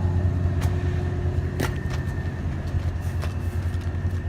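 A steady low mechanical hum with a constant higher tone riding on it, broken by a few short light clicks, the clearest about one and a half seconds in and another about three seconds in.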